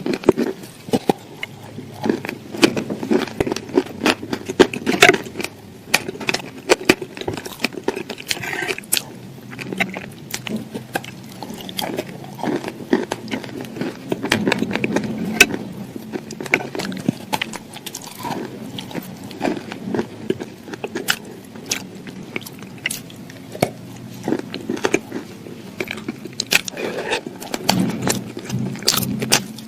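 Crunchy food being bitten and chewed: a steady stream of irregular crisp crunches and crackles.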